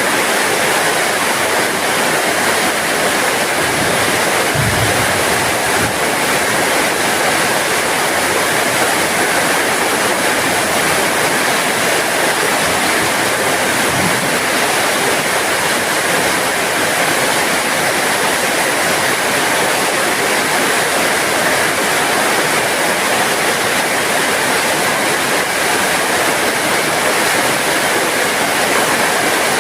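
Steady heavy rain falling, an even dense hiss of water with no let-up. A couple of faint low thumps, about four and a half and fourteen seconds in.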